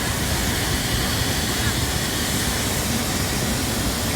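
A steady, loud rushing hiss with a low rumble beneath it, unchanging throughout.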